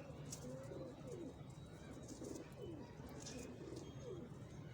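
Domestic pigeons cooing softly: a run of short, low, gliding coos repeating one after another.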